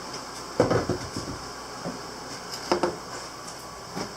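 Wooden cabinet door being opened and handled, giving a cluster of knocks and clunks about half a second in, another pair near three seconds, and a light knock near the end.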